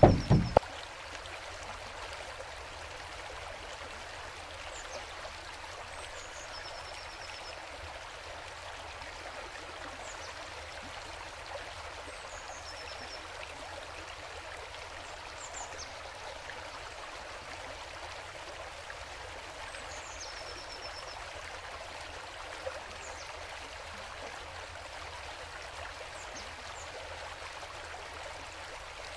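Steady rush of flowing water, with a small bird repeating a short high chirp and a brief trill every few seconds. A loud rhythmic sound cuts off about half a second in.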